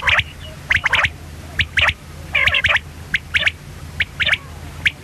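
Common quail calling: short, sharp notes in pairs or small clusters, repeated about once a second.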